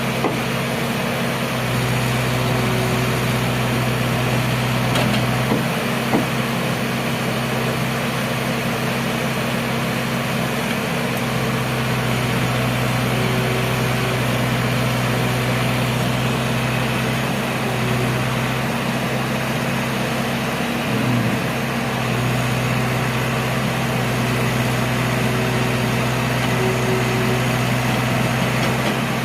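Engine of a heavy construction machine running steadily, a low hum that eases off and comes back a few times, with a couple of sharp clicks near the start.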